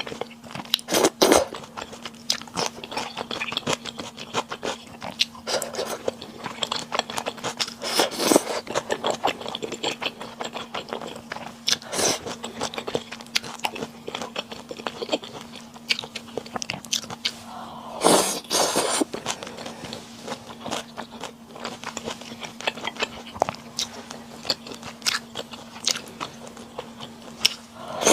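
Close-miked mukbang eating sounds: a person biting and chewing crunchy food in a steady run of crisp crunches and wet clicks. Louder bursts come about a second in, near eight seconds and near eighteen seconds. A faint steady hum runs underneath.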